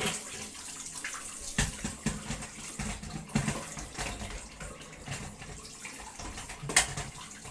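Hot tap water running into a small sink while a dirty Dyson vacuum part is rinsed under it, with a few knocks, one about a second and a half in and one near the end.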